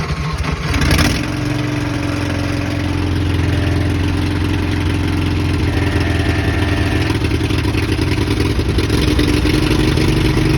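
Boat engine started on choke with its electric starter: cranking briefly, catching about a second in, then running steadily as it clears out after the cold start.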